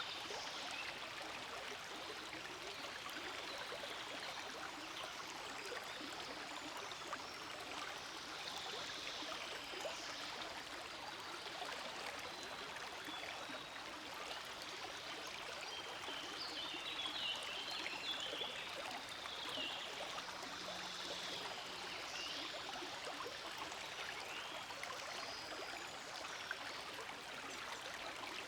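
Forest stream flowing with a steady, continuous babble of running water.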